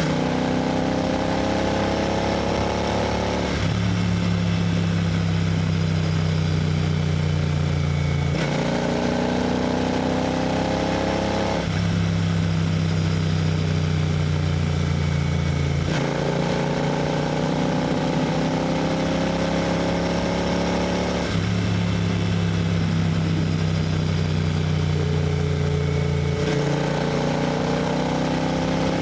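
Royal Enfield GT 650's 648 cc parallel-twin engine running steadily at highway cruising speed, heard from on the bike, under a constant rush of wind and road noise.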